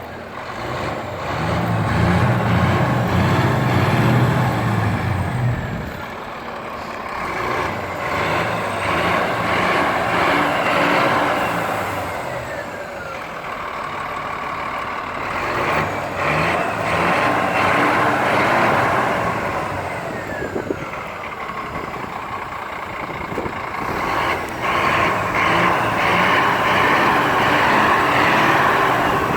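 2013 Scania G460 truck's diesel engine running, growing louder and falling back several times.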